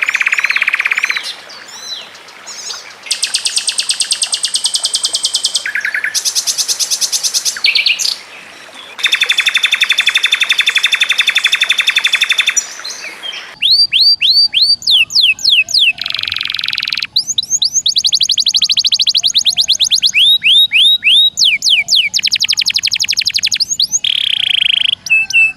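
Songbirds singing a mix of icterine warbler, sikatan londo and canary song: fast, dense trills and quick repeated high notes in phrases broken by short pauses. About halfway through the recording changes to a cleaner one with runs of quick rising whistled notes.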